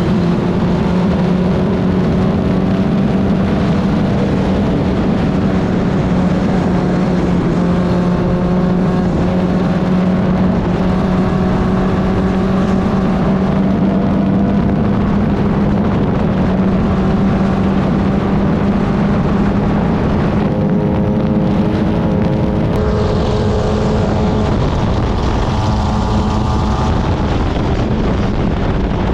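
Club Ford single-seater race car engine running hard on track, a steady, loud, continuous engine note. About two-thirds of the way through the note changes briefly, then settles again.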